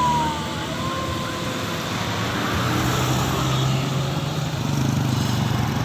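Road traffic: a motor vehicle's engine running steadily with tyre and road noise, and a brief falling squeal right at the start.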